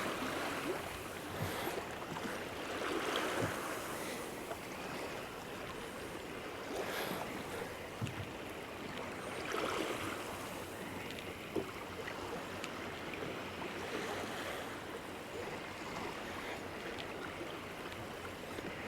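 Seawater lapping and sloshing against a drifting kayak's hull in ocean swells, swelling louder every few seconds, with wind on the microphone and a few faint knocks.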